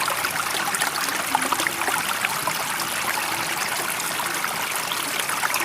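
Running water trickling and babbling steadily, with many small splashes and no rise and fall of waves.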